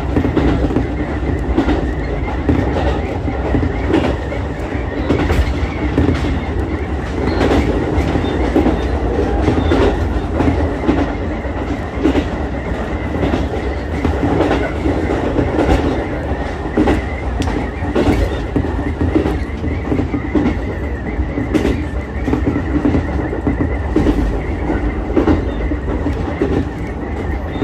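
Ichibata Electric Railway 7000-series electric railcar running along the line, heard from on board: a steady low rumble with wheels clicking over rail joints at irregular intervals.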